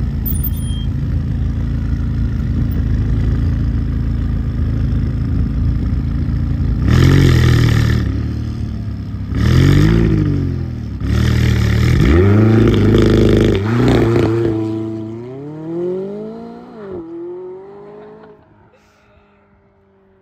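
McLaren 570S twin-turbo V8 running with a steady drone, then revved up and down several times from about seven seconds in. Near the end the engine note rises in pitch and fades away.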